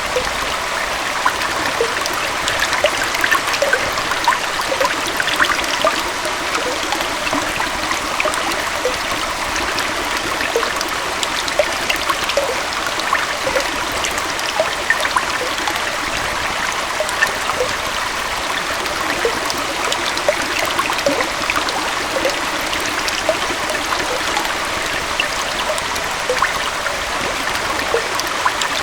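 Small forest waterfall and stream flowing steadily: an even rush of water with many small splashes and trickles, light on deep rumble.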